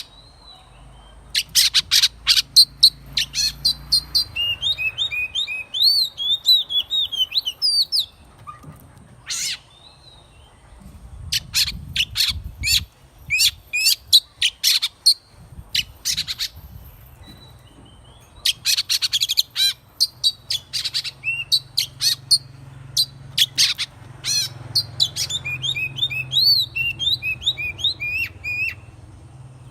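Oriental magpie-robin singing in two long bouts of varied song, each starting with a rapid string of sharp notes and running into quick, repeated whistled glides, with shorter phrases between them.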